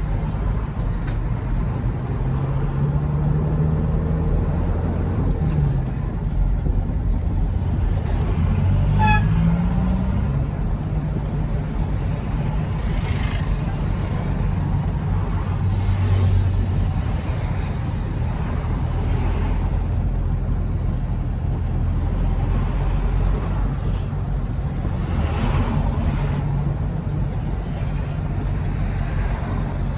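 Truck engine running while on the move: a steady low rumble, with the engine pitch rising briefly about nine seconds in. A few short hissing sounds come through over it.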